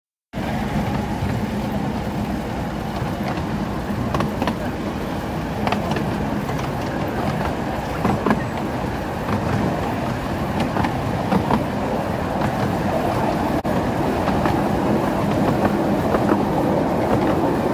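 12-inch-gauge miniature railway train running, heard from an open carriage: a steady rumble of wheels on rail with irregular clicks over the rail joints, and a faint steady engine hum.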